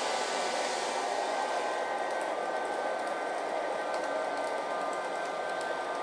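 iLife V5 robot vacuum cleaner running, its suction fan giving a steady whirring hiss with a thin high whine over it. The upper hiss thins a little about two seconds in.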